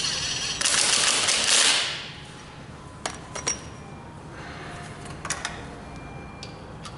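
A loud rushing hiss that dies away about two seconds in, followed by a few sharp metallic clicks and taps of tools at work.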